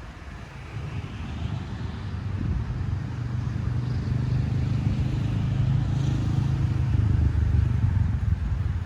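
A motor vehicle's engine rumbling, growing steadily louder over several seconds as it comes closer.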